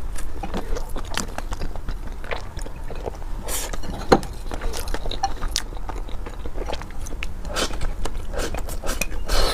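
Close-miked mouth sounds of a person chewing and biting sticky rice, with frequent irregular wet clicks and smacks.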